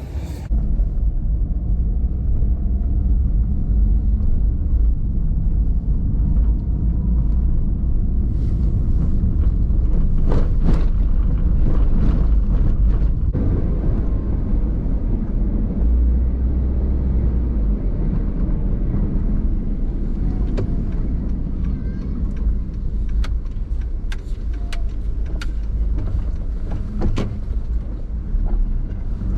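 Car driving, with a steady low rumble of engine and road noise and a few light clicks and knocks in the second half.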